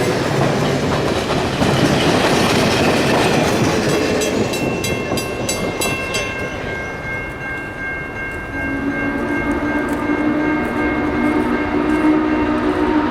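Steam train running with loud, noisy rumble, then a whistle chord of high tones held for about two seconds with ticking under it. From about nine seconds in, a lower multi-tone whistle chord sounds and holds to the end.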